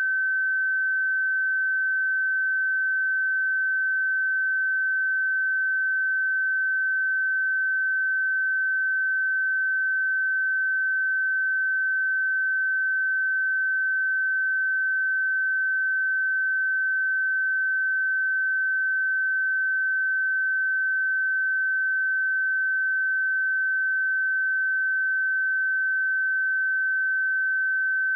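A pure 1537 Hz sine-wave test tone, held steady at one pitch and level throughout.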